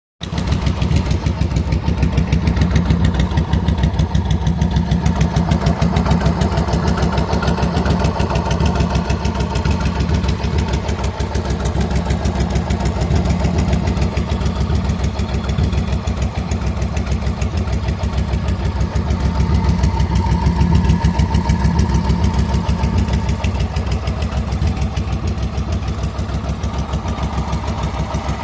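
A large 1400 cc motorcycle engine idling steadily with a fast, even pulse.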